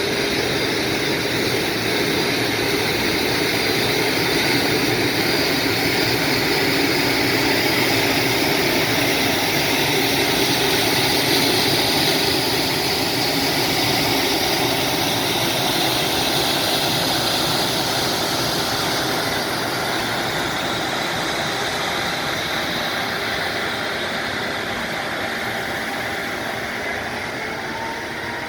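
Freight train rolling past on the rails: a steady rumble and rush of wheels on track that swells about twelve seconds in and slowly fades toward the end.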